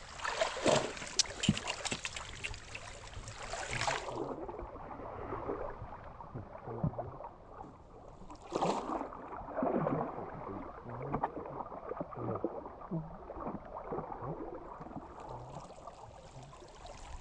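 Water splashing and sloshing in a shallow river, with many small knocks and clicks, as someone works in the water. It is loudest and brightest for the first four seconds, then settles to a softer slosh, with brief louder splashes about halfway through and again near the end.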